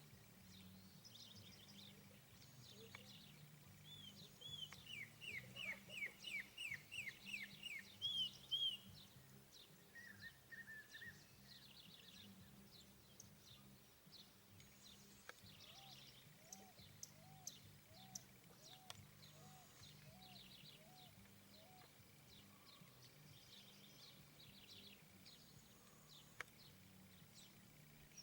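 Several small wild birds chirping and calling, faint overall, with a louder run of quick falling chirps about four to nine seconds in, scattered high chirps throughout, and a run of lower repeated notes midway.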